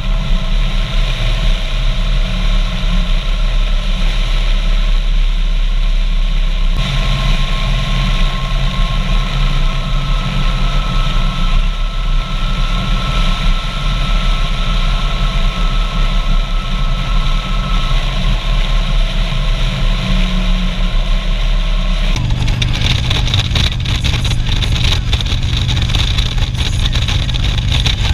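Harley-Davidson Street Glide's V-twin engine running during a ride, mixed with steady wind and road noise. The sound changes abruptly about seven seconds in and again about three-quarters of the way through, after which it turns rougher and gustier.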